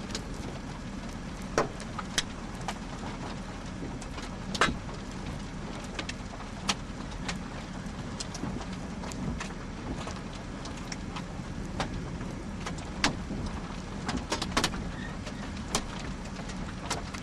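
Car running steadily, heard from inside the cabin as a low hum, with about fifteen sharp ticks scattered irregularly over it.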